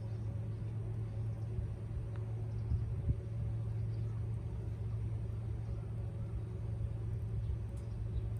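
A steady low mechanical hum, like an engine or motor running, with a couple of faint clicks about two and three seconds in.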